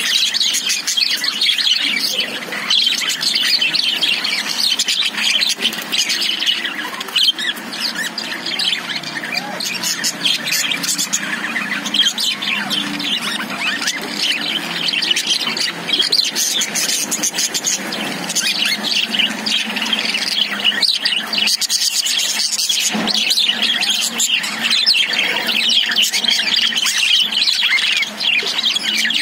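Several caged budgerigars chirping and chattering at once, a dense, continuous twitter of overlapping high-pitched calls.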